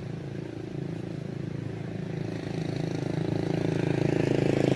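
A motor vehicle's engine running steadily, growing louder as it draws near.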